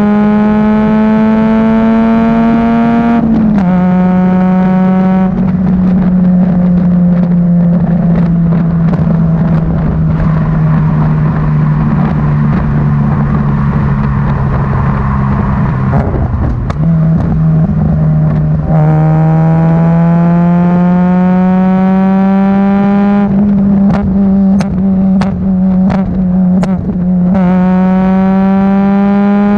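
Peugeot 106 GTi's 1.6 16-valve four-cylinder engine through a decat Supersprint race exhaust, climbing in pitch under throttle. The note drops at a gear change about three seconds in, then falls slowly for a long stretch off the throttle, and climbs again in the second half. Near the end come several sharp pops from the exhaust.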